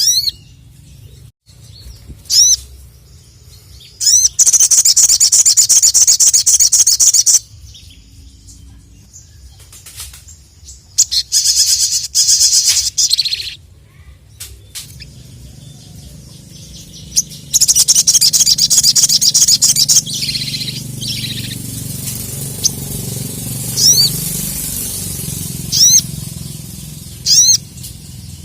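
Sogon (sogok ontong, a bulbul) singing: three loud bursts of rapid high-pitched chattering, each about three seconds long, between short rising whistled notes.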